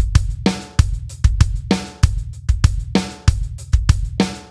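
Drum kit playing a simple samba groove: steady sixteenth notes on the hi-hat played with both hands, with bass drum and snare strokes in an even, repeating rhythm.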